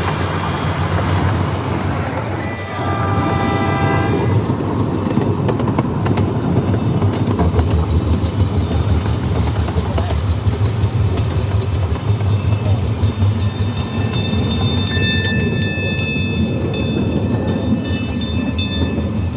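Amusement park train running along its track with a steady rumble. A short horn blast sounds about three seconds in. In the second half come quick rhythmic clicks from the wheels over the rails and a high steady squeal.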